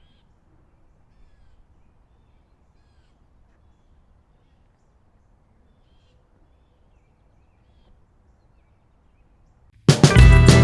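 Faint outdoor background hush with a few faint, distant bird calls. Near the end, acoustic-guitar background music starts abruptly and loudly.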